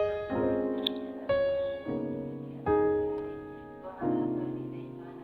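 Background piano music: slow, separate notes and chords, each struck and left to die away.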